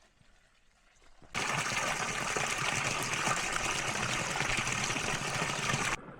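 Creek running high after heavy rain: a steady, loud rush of flowing water that starts abruptly about a second and a half in and cuts off suddenly near the end, with a fainter rush after.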